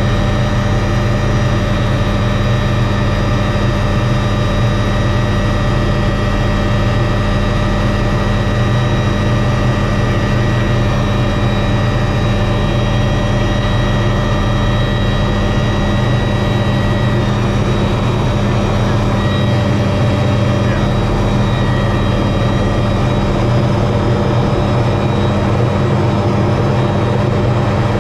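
Helicopter turbine and rotor running steadily: a constant low drone with a steady whine above it.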